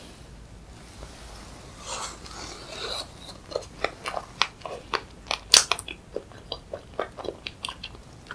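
Close-miked chewing of a bite of soft strawberry-and-cream cake. From about three seconds in there is a quick, irregular run of wet mouth clicks.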